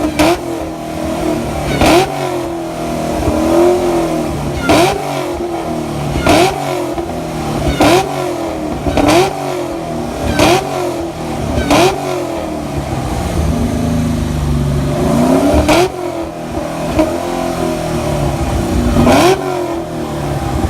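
Supercharged car engine being revved hard over and over in quick blips, each rising in pitch and ending in a sharp crack. About ten blips come roughly every one and a half seconds, with one longer held rev partway through.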